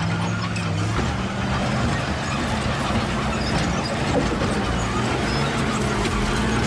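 Caterpillar bulldozer's diesel engine running steadily under load, its note shifting a little now and then, with scattered clatter of steel and rock as it works.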